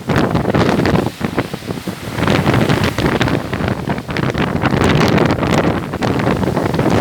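Strong wind buffeting the microphone in gusts: a loud, rumbling roar that surges and briefly drops away.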